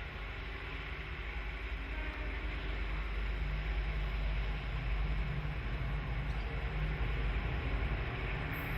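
Diesel freight locomotive running with a steady low rumble that grows gradually louder as it approaches.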